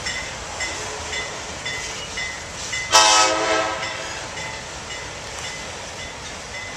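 Diesel locomotive air horn sounding one blast of about a second and a half, about three seconds in, over the steady rumble of a passing freight train.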